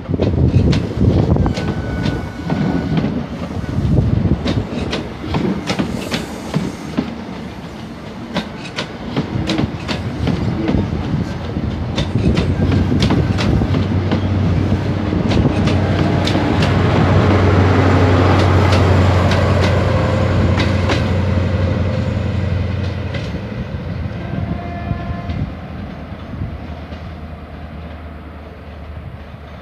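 Diesel passenger train passing, its wheels clicking rapidly over rail joints and points. A low engine drone swells to its loudest just past the middle, then fades away as the clicking thins out.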